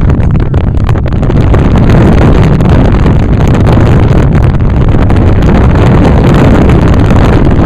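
Strong wind buffeting the microphone of a camera held at an open car window while driving, loud and steady over the car's road noise.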